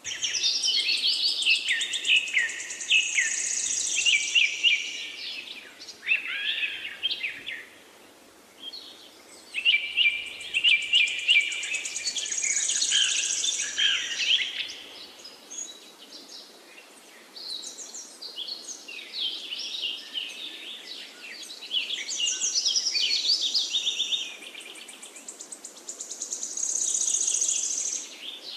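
Songbirds singing in a forest, in phrases a few seconds long of quick chirps and whistled notes, with short lulls between them over a faint steady background hiss.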